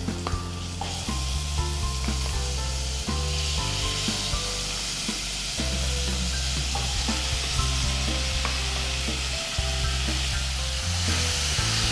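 Chicken pieces sizzling in hot oil and butter as they are stirred in the pot, with occasional knocks of the spoon. The sizzle grows louder a few seconds in. Background music plays underneath.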